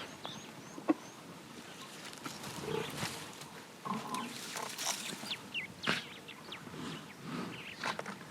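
A wild animal's low grunting sounds, mixed with sharp clicks and knocks and, near the start, a bird's short repeated high chirps.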